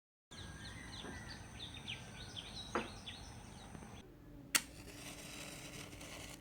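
Birds chirping rapidly over outdoor background noise and a steady high whine, cutting off abruptly about four seconds in. A single sharp click follows against a quieter background with a low hum.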